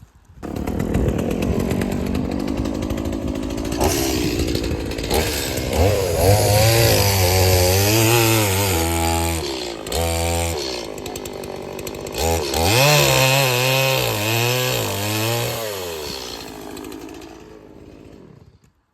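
Chainsaw running and cutting wood, its engine rising and falling in pitch as it works through the cut in two long passes with a short drop around the middle, then winding down near the end.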